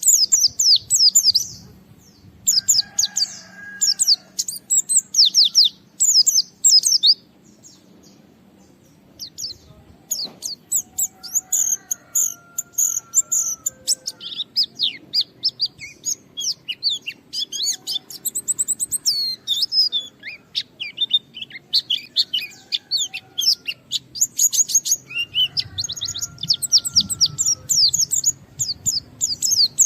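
White-eye (pleci) singing at full tilt: rapid runs of high, sharp twittering notes in repeated phrases, with a short pause a little after a quarter of the way in. This is the vigorous challenging song of a bird calling out a rival.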